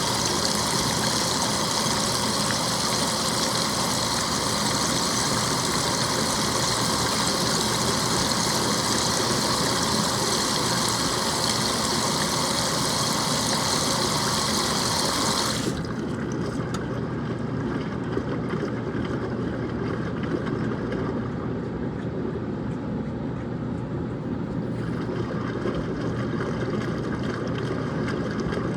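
Washing machine on a hot wash, water rushing in steadily over a low machine hum; about 16 seconds in the rush of water cuts off suddenly, leaving the low hum.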